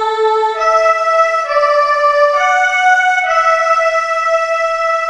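Electronic keyboard playing held chords that change about once a second, with no beat, fading toward the end.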